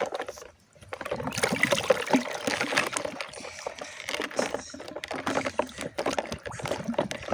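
Water splashing and trickling, a steady run of small splashes and drips, after a brief gap near the start.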